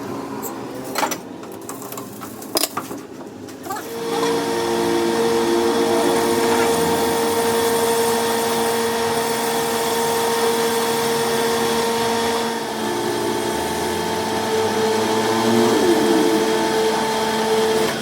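A handheld electric power tool starts about four seconds in, after a few knocks, and runs steadily at a constant pitch with a high hiss. It eases briefly about two-thirds of the way through, then carries on.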